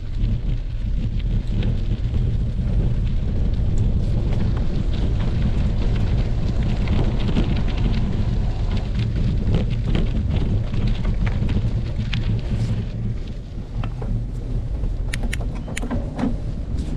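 Wind buffeting the microphone as a bicycle is ridden along the road, a steady low rumble, with a few sharp clicks near the end.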